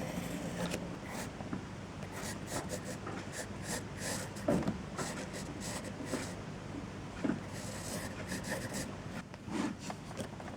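Irregular rubbing and scratching with a few light knocks, over a steady low hum.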